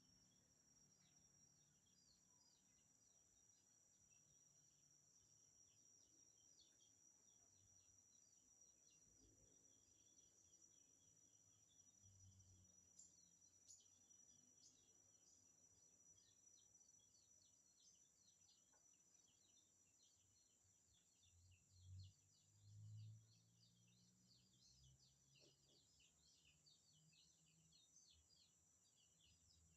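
Faint insect whine, steady and high-pitched, with many short high chirps running through it. Two soft low thumps come a little past two-thirds of the way through.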